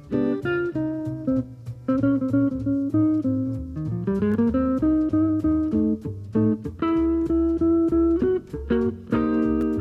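Live jazz with guitar playing plucked chords and single notes, including a rising run about four seconds in, over bass.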